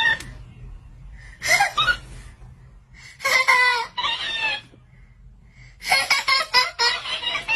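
A baby's high-pitched squeals and laughs, in three short bouts, the last a run of quick giggling pulses.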